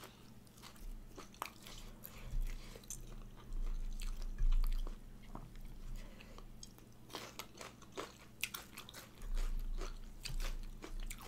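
Close-miked chewing and biting of raw shrimp salad, with crunching and many short wet mouth clicks, and a few low bumps along the way.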